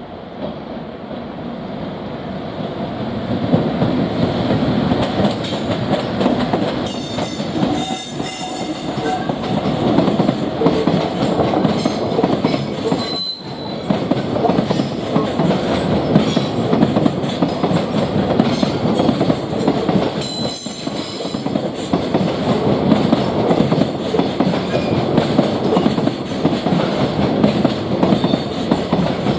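A long freight train passing at speed, its wheels clattering over the rail joints in a steady run of knocks. It builds up over the first few seconds, with a couple of brief high wheel squeals along the way.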